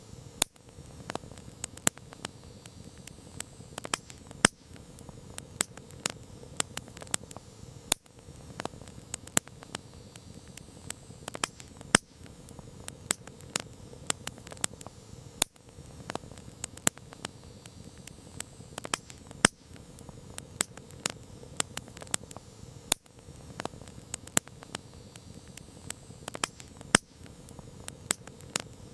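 Campfire crackling: many small irregular snaps and pops over a soft, steady hiss of the flames, with a louder pop every few seconds.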